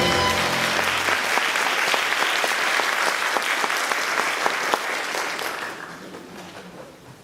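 Audience applauding at the end of a song, fading away over the last two seconds. The last chord of the band rings out under the first moments of the clapping.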